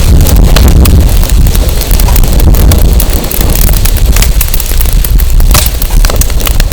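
Firewood burning in an open fire pit, crackling with many sharp irregular snaps, under heavy wind rumbling on the microphone.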